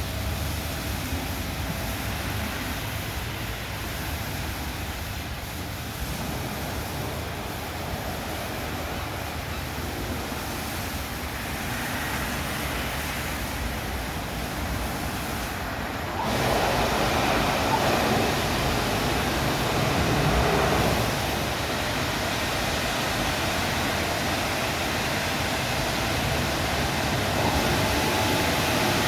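WashTec SoftCare Pro Classic rollover car wash running over a car, a steady mix of machinery and water noise. It gets louder about sixteen seconds in, and a faint steady tone joins near the end.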